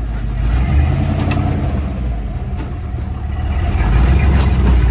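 Off-road truck's engine running close by, its rumble swelling as it revs up about a second in and again near the end.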